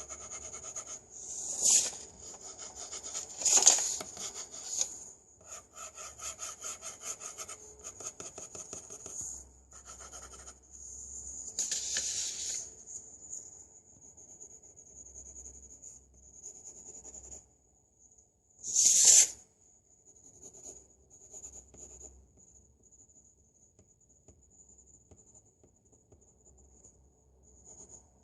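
Pencil scratching on paper: runs of quick, short hatching strokes several a second, with a few louder, longer strokes, the loudest about 19 seconds in.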